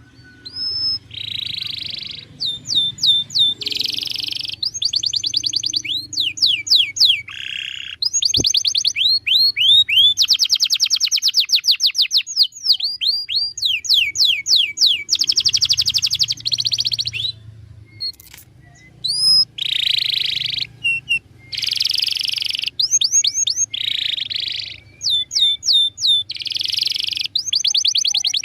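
A domestic canary singing a long, varied song: rapid trills of repeated notes, fast falling whistles and rolling buzzy phrases that switch every second or two, with a short pause about two-thirds of the way through.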